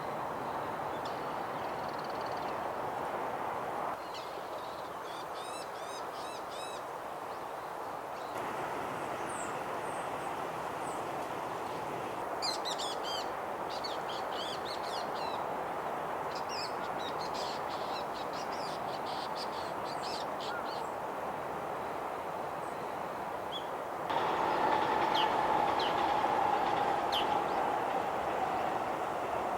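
Wild birds giving short, sharp, high calls in scattered clusters over a steady background hum. The hum grows louder near the end.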